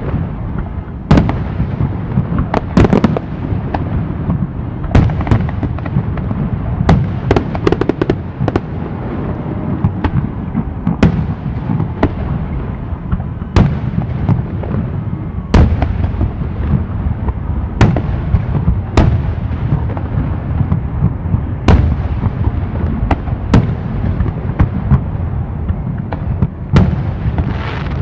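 Fireworks display: aerial shells bursting one after another, a sharp bang every second or two over a continuous low rumble of overlapping booms.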